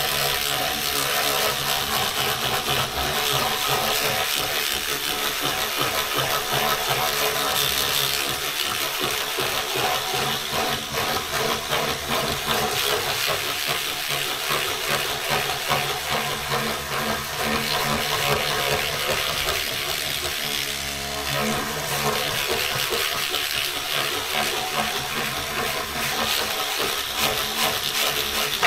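Electric scrub brush running against the wet, soapy, textured plastic cover of a Daro 20 typewriter: a steady motor hum under a continuous wet scrubbing hiss.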